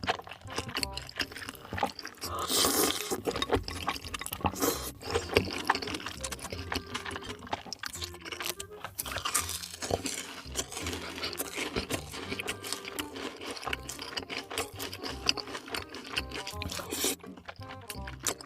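Close-miked mukbang eating sounds: wet chewing, crunching and slurping in quick irregular clicks, over background music.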